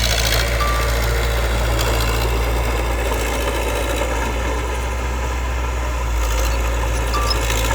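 Heavy-equipment diesel engine running steadily with a low, even drone.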